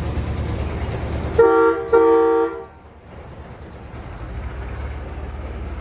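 Amusement park train sounding two short toots, a two-note chord, about a second and a half in, the second a little longer. Then a low, steady rumble of the train running, slowly growing louder.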